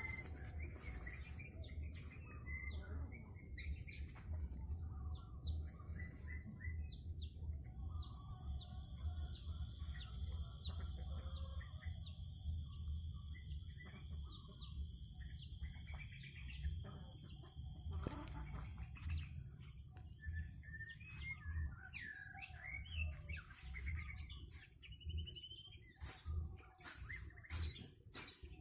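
Birds chirping in many short, repeated downward calls, over a steady high-pitched buzz and a low rumble underneath.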